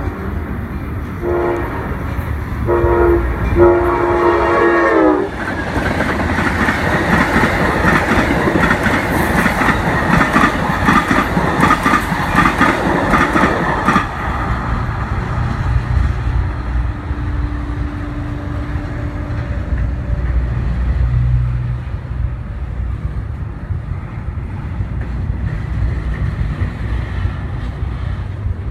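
Train horn sounding in several blasts, the last one long and falling in pitch as the train passes, followed by loud clickety-clack of wheels on rail joints that eases off about halfway through into a lower rumble.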